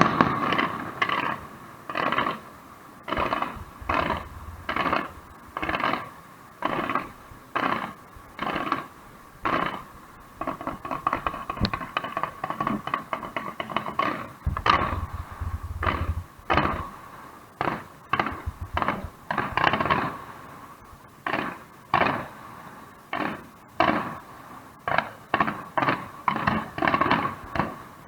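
Aerial fireworks bursting: a long string of sharp, echoing bangs at about one or two a second, with denser volleys near the middle and near the end.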